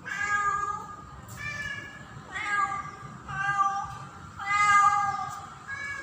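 Female domestic cat in heat calling for a male: a run of drawn-out meows, about one a second, five in all with a sixth starting near the end, the fifth the loudest.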